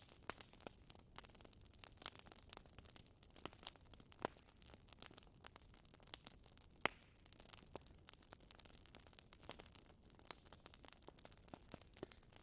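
Wood fire crackling: irregular sharp pops and snaps over a faint low hiss, with one louder pop about seven seconds in.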